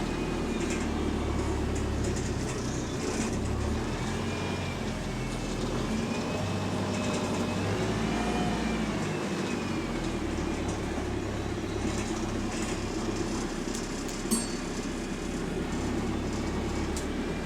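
Inside a moving single-deck bus: the engine and drivetrain run with a steady low rumble and a faint whine that rises and falls, and the body rattles. There is one sharp click about fourteen seconds in.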